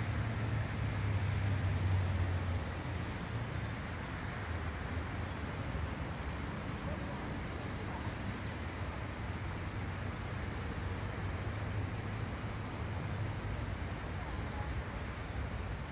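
Outdoor park ambience: a steady low rumble under an even hiss, the rumble a little louder for the first two seconds or so.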